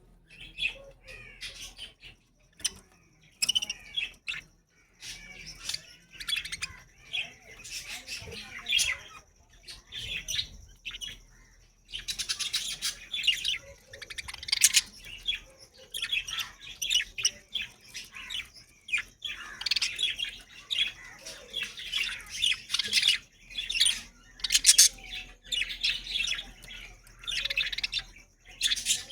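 Show budgerigars chirping and chattering in quick, overlapping calls, getting busier and louder about twelve seconds in.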